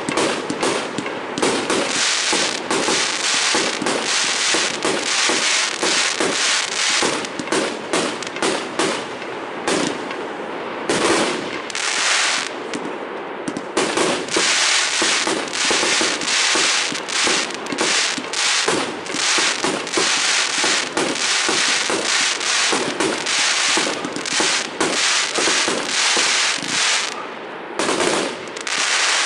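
Fireworks going off in a dense, continuous stream of rapid cracks and bangs, with brief lulls about ten seconds in and again near the end.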